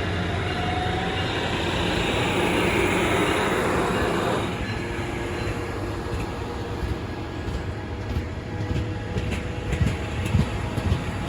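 A train passing, its noise swelling and then dropping away sharply about four and a half seconds in; after that a lower rumble remains, with a few short knocks near the end.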